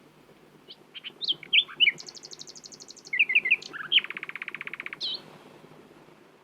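Common nightingale singing one song phrase: a few varied, sliding whistled notes, a rapid high trill, then a lower, faster rattling trill, ending with a short rising note about five seconds in.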